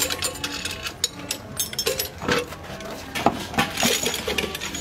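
Rapid, irregular metallic clinks and knocks of parts and tools being handled as a car is taken apart, with faint crowd voices behind.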